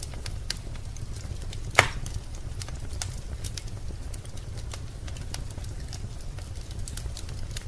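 Wood fire crackling in a fireplace: scattered small snaps, with one loud pop about two seconds in, over a low steady rumble.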